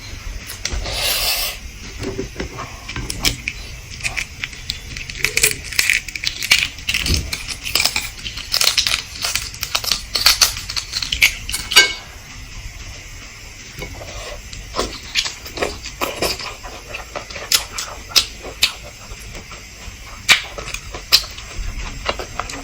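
Close-up sounds of eating eggs: a run of sharp clicks and crackles from shell and utensils, packed tightly for about the first twelve seconds and sparser after.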